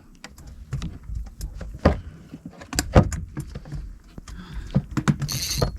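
Knocks, clicks and rustling of fishing tackle being handled in a kayak as the bobber is moved shallower on the line, over a low rumble. A brief high buzzing sound comes near the end.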